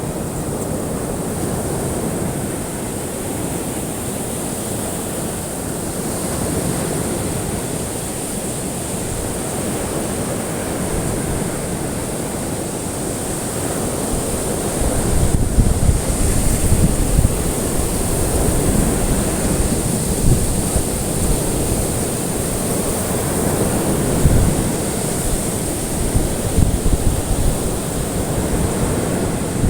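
Ocean surf washing on a shore, a steady rush of waves with a thin high hiss. About halfway through, a low, uneven rumble of wind buffeting the microphone grows louder.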